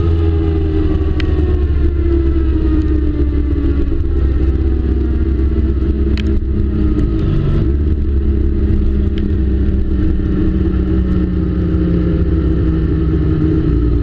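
Motorcycle engine heard from on board, running steadily while its pitch falls slowly as the bike slows down.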